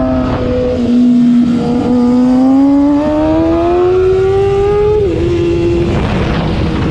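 Sport motorcycle's engine heard from on board, revs climbing steadily under hard acceleration, then dropping sharply a little after five seconds in at an upshift before pulling on. Wind rush on the microphone grows near the end as speed builds.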